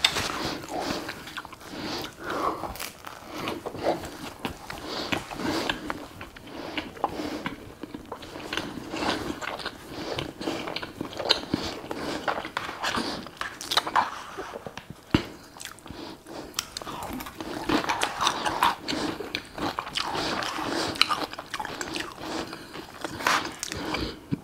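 Close-miked eating: a person biting and chewing food, with irregular crunches and wet mouth sounds.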